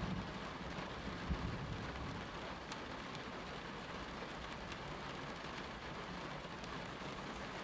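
Steady rain falling, an even hiss with a few faint drop ticks. A low rumble fades out in the first couple of seconds.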